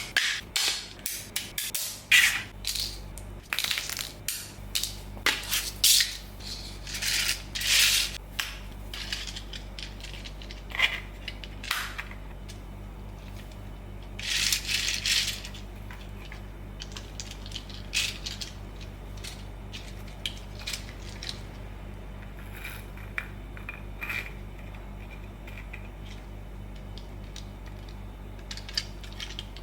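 A 3D-printed plastic toy tank model handled: hard plastic clicking, rattling and rubbing, busiest in the first half and thinning to occasional clicks later, over a steady low hum.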